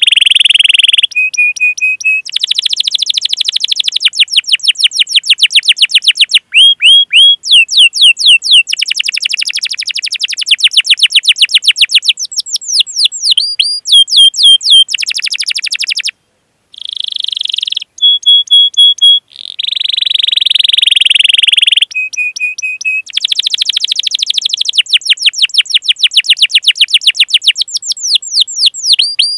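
Canary singing a long, loud song of fast rolled trills, sweeping chirps and steady whistled notes, with a brief pause about sixteen seconds in.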